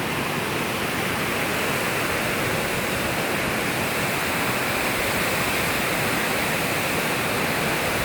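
Waterfall water rushing and splashing in a steady, loud hiss that grows slightly louder toward the end.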